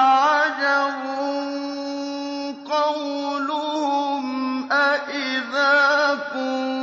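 A male reciter chanting the Quran in the melodic tajweed style, in maqam Nahawand. He holds long, ornamented notes, with short breaths between phrases.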